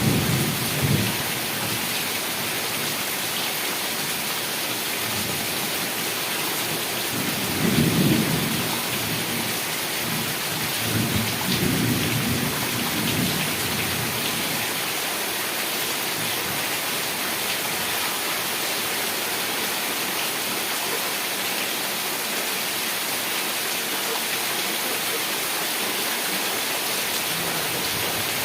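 Heavy rain falling steadily, with rolls of thunder rumbling low near the start, about eight seconds in, and again a few seconds later.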